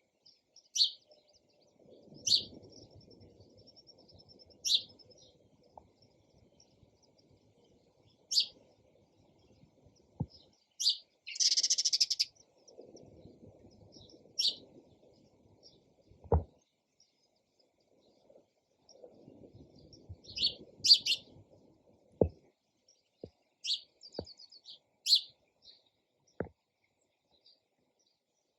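Sparrows chirping: single short, high chirps a second or two apart, with a longer harsh chatter about twelve seconds in and a quick trill near the end. A few faint knocks fall between the calls.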